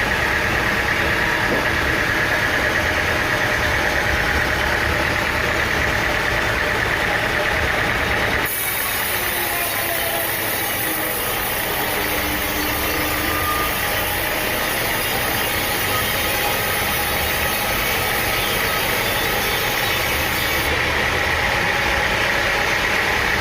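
An engine running steadily, its sound changing abruptly about eight seconds in and a high hiss added for the middle stretch.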